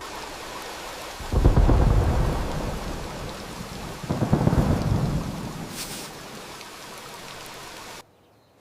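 Steady rain with two rolls of thunder, one about a second in and another about four seconds in, each swelling and then fading; the sound cuts off suddenly near the end.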